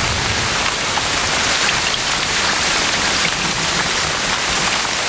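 Heavy tropical rain falling steadily on rainforest foliage, an even, unbroken hiss.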